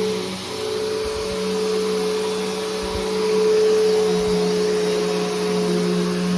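Bissell Powerforce Helix Turbo upright vacuum cleaner running with a steady motor hum and hiss, with a few short low thumps.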